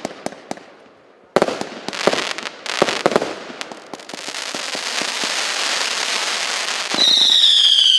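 Consumer fireworks battery (cake) firing: several sharp bangs of shots and bursts in the first few seconds, then a dense crackling from about four seconds in, then a loud whistle falling slightly in pitch from about seven seconds.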